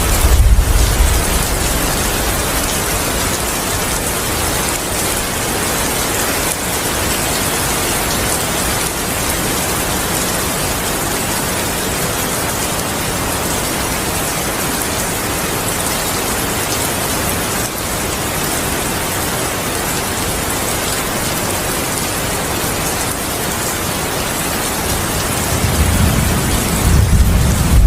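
Steady heavy rain. The low rumble of thunder fades out in the first second, and another low thunder rumble builds near the end.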